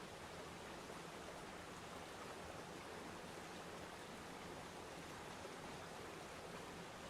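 Waterfall water falling and rushing in a steady, even hiss.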